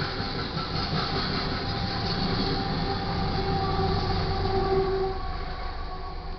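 A loaded Union Pacific coal train rolls past close by: the hopper cars rumble and clatter on the rails. Then the rear distributed-power locomotive, a GE AC44CW, goes by with a steady whine. The noise eases off near the end as the train moves away.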